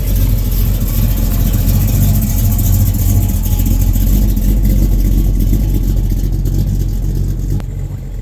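Car engines running with a steady low rumble as cars leave a car show, easing a little near the end.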